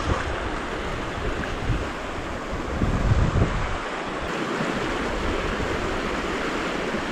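Steady outdoor rushing of wind and water, with gusts buffeting the microphone briefly about three seconds in.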